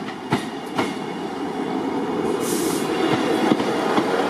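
ScotRail diesel multiple unit arriving along the platform and passing close by, its rumble of wheels and underfloor engine growing louder. Two sharp clicks come about half a second apart near the start, and a brief high hiss comes about halfway through.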